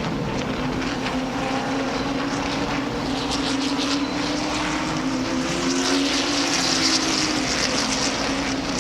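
A field of late model stock cars' V8 engines droning together at pace-lap speed, getting somewhat louder in the second half as the pack comes closer.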